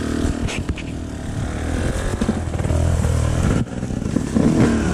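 Enduro dirt bike engine running, its pitch rising and falling as the throttle is worked, with a brief drop in level about three and a half seconds in.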